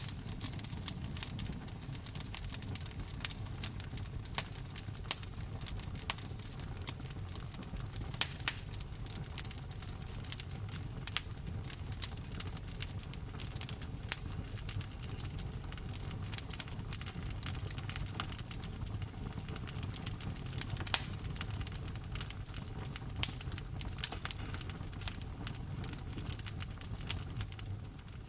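Wood fire crackling steadily, with frequent sharp pops and snaps, a few louder than the rest, over a low, even rumble of the burning logs.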